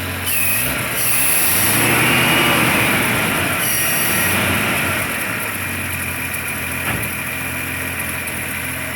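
Truck engine revving up over the first couple of seconds, held at higher revs, then dropping back to a steady idle about five seconds in.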